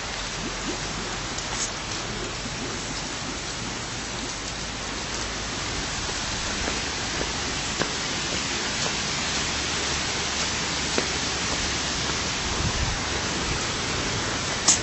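Steady rush of water from a stream or waterfall, an even hiss that grows slightly louder as it goes, with a few faint clicks.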